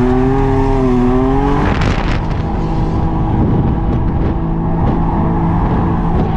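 Nissan 350Z's 3.5-litre V6 heard from inside the cabin under hard driving, the revs rising and falling, with a brief burst of noise about two seconds in and steadier revs after it.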